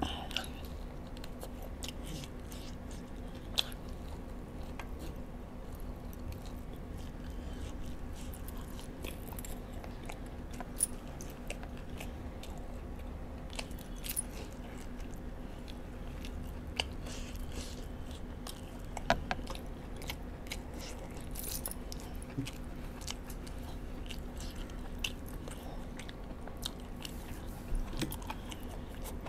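Close-up chewing and biting of spicy chicken wings, with many short mouth clicks and smacks, a few of them sharper. A steady low hum runs underneath.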